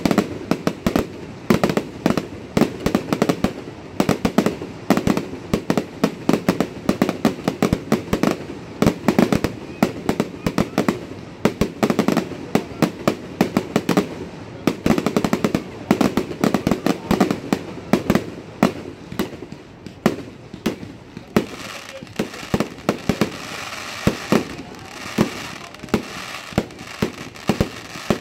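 Fireworks display going off in quick succession: a dense, uneven run of sharp bangs and pops from shells launching and bursting, several a second. About twenty seconds in, a steadier, higher-pitched hiss joins underneath the bangs.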